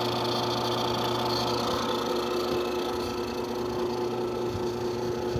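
Refrigerant recovery machine, run as a vacuum pump, running with a steady hum while it pulls an air-conditioning system's low side down toward a vacuum.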